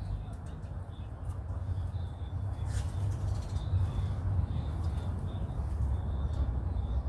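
Small birds chirping in short, repeated high notes over a steady low rumble, with one sharp click about three seconds in.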